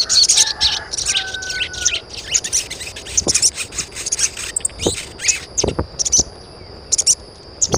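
Birds chirping in many short, high, quick notes over a steady high-pitched tone, with a few sharp clicks in the second half.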